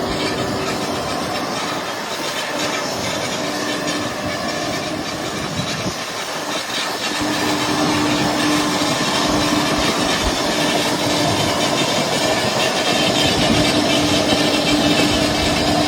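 Steady vehicle noise while travelling: a continuous rushing hiss with a few held hums, getting a little louder about eight seconds in.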